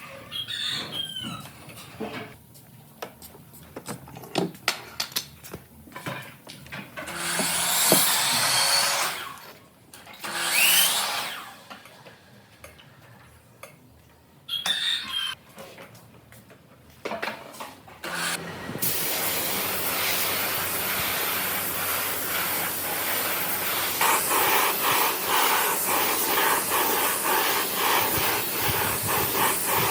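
Woodworking sounds: scattered knocks and handling noises, two short bursts of a power tool, then a power tool starting about two-thirds of the way through and running steadily.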